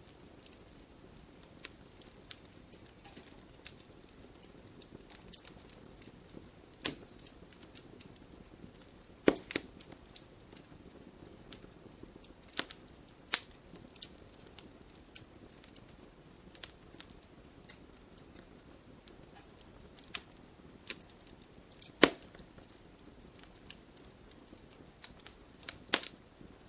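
Campfire burning: a soft low rumble of flames with frequent irregular crackles and sharp pops of wood, a few louder snaps scattered through.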